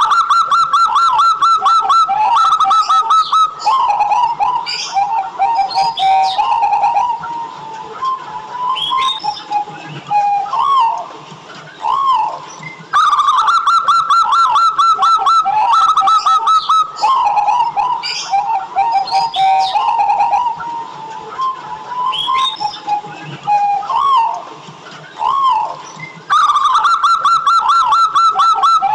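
Zebra dove (perkutut) singing its cooing song: a fast run of clear, evenly spaced notes, then lower rolling coos. The whole phrase comes three times, about every 13 seconds.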